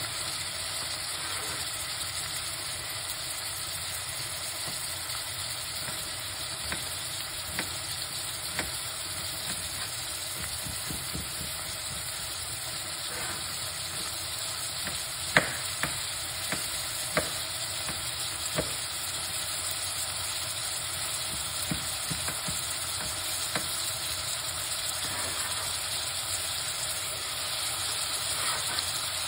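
Onion and julienned carrot sizzling in oil in a pot: a steady frying hiss with scattered crackles and pops, the sharpest about halfway through.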